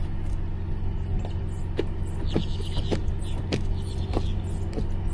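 Pickup truck engine idling steadily, with a few light clicks and knocks over it.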